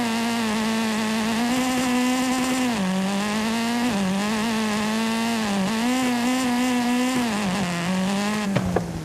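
Video game car engine running steadily, its pitch dipping and climbing back several times with throttle and gear changes; a short knock sounds near the end.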